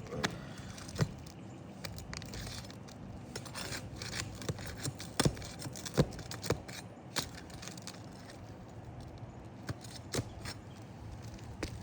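Roofing nails being pried out from under brittle, wind-damaged roof shingles: irregular sharp clicks, scrapes and small knocks of the tool working against nails and shingles, with a couple of louder knocks around the middle.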